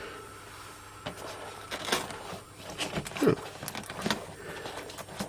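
Scattered light clicks, taps and rustles of a cardboard advent calendar and its cellophane wrapping being handled at close range.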